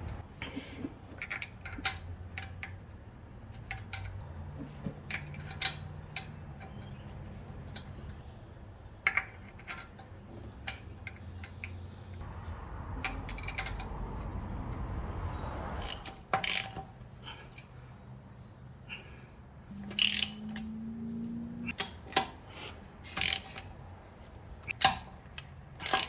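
Hand-tool work on a car wheel: scattered metallic clicks and knocks with ratchet-like clicking, a low hum through the middle stretch, and sharper, louder knocks near the end.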